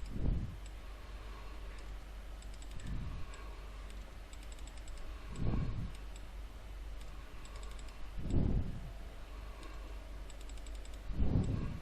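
Light typing on a computer keyboard with occasional clicks, plus soft low thumps a few times, about every three seconds.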